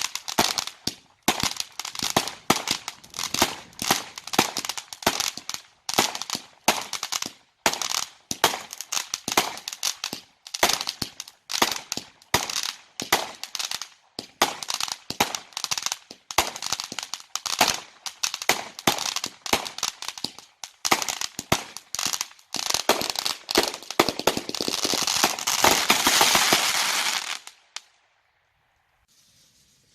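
Fireworks going off in a rapid run of sharp bangs, about three or four a second, building into a dense continuous crackle near the end before cutting off suddenly.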